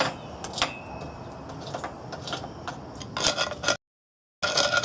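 Scattered light knocks and clicks of hard objects being handled, with a short run of rapid clattering about three seconds in. The sound cuts out completely for about half a second near the end, then clattering resumes.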